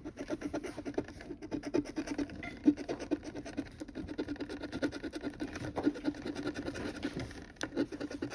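A coin scratching the latex coating off a scratch-off lottery ticket in rapid, repeated back-and-forth strokes.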